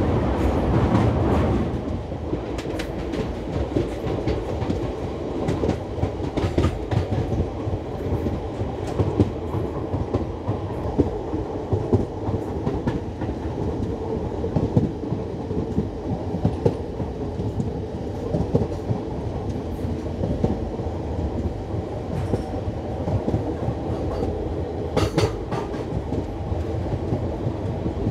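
Passenger train running, heard from an open coach door: a steady rumble with the clatter of the wheels over the rails and scattered sharp clicks. It is louder for the first second and a half while the coach is on a steel truss bridge, then settles to an even run on open track.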